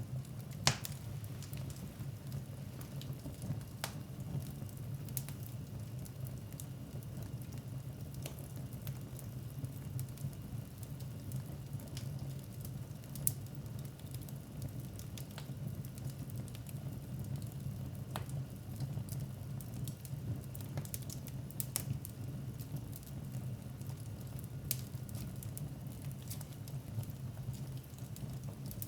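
Wood fire burning in a fireplace: scattered crackles and pops over a steady low rumble, with a sharper pop about a second in and another near the middle.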